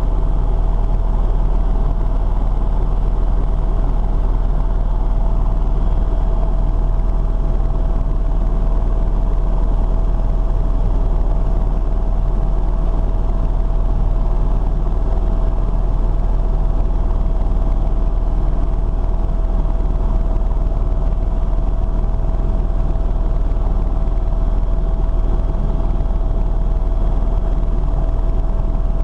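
Steady engine and airflow noise of an aircraft in flight, heard from the cabin: a deep, unbroken rumble with a steady hum on top.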